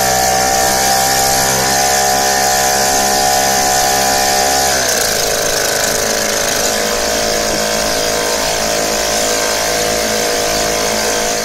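British Seagull two-stroke outboard motor running loud and steady, just pull-started on choke with the throttle full open. About five seconds in its revs drop to a lower steady pitch, and near the very end the sound falls away.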